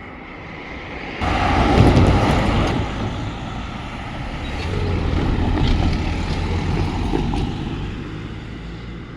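A vehicle passing close by: its sound jumps up sharply about a second in, swells again in the middle with a low engine hum, and fades away near the end.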